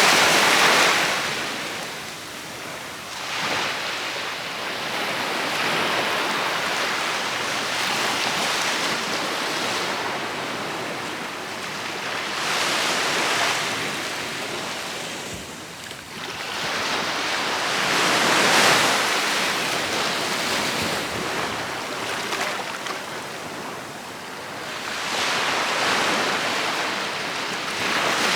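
Ocean surf: waves breaking and washing up a beach. The hiss swells and fades with each wave, in several surges, the loudest at the very start.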